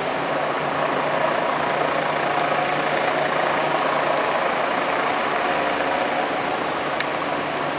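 Helicopter running steadily, its engine and rotor making a continuous even noise with a faint steady hum under it.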